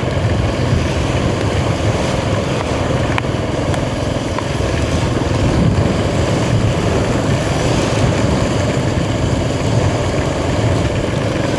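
Royal Enfield Himalayan 450's single-cylinder engine running steadily under way, under a loud, even rush of wind and rain noise.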